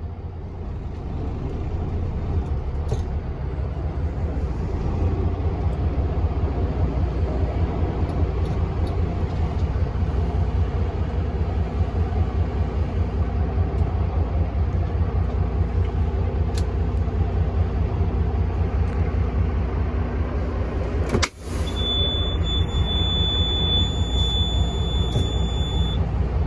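A truck's engine running with a steady low rumble. There is a brief break about 21 seconds in, and a thin, steady high-pitched tone sounds for a few seconds near the end.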